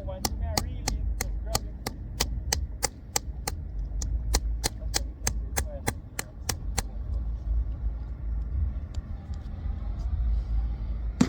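An even run of sharp clicks or taps, about three a second, that stops about seven seconds in, over a steady low rumble; one sharp knock near the end.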